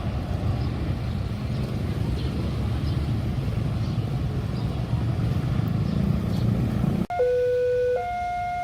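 A train passing close by, a heavy low rumble of wheels on the rails. About seven seconds in it cuts off abruptly and an electronic two-tone alarm starts, switching between a low and a high pitch.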